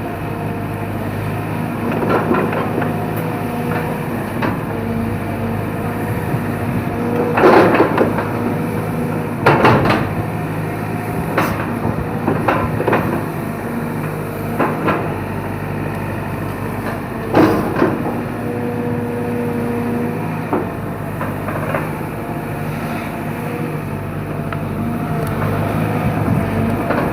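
Excavator diesel engine running steadily under load. Several sharp knocks and cracks stand out over it, the loudest a third of the way in and again past the middle.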